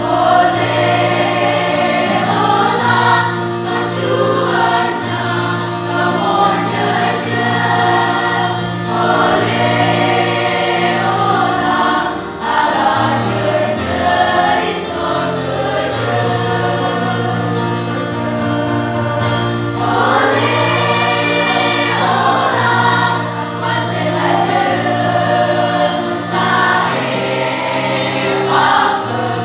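A high-school choir singing a song in several vocal parts, with steady held low notes beneath the voices.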